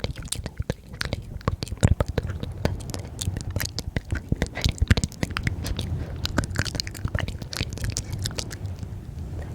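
ASMR mouth sounds very close to the microphone: a steady stream of quick wet clicks and smacks.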